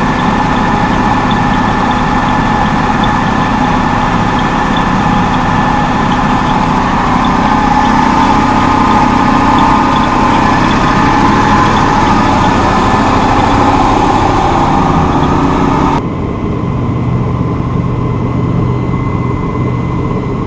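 A boat's single Chevy inboard engine running steadily underway, with a rush of wind and water over it; the boat is running on one engine, the other shut down after overheating. About three-quarters of the way through, the sound shifts abruptly and the hiss drops away.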